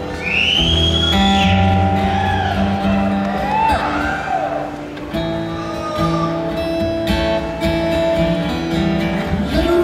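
Acoustic guitar playing live on stage.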